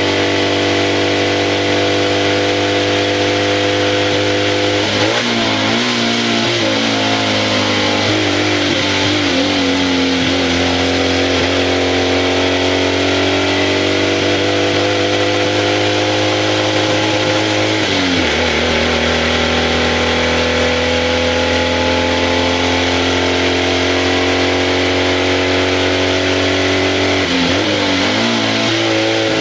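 BMW 700 RS's rear-mounted air-cooled flat-twin engine pulling hard uphill, heard from the cockpit over a steady hiss of wind and road noise. Its pitch climbs slowly between gear changes, which come about five, eighteen and twenty-seven seconds in.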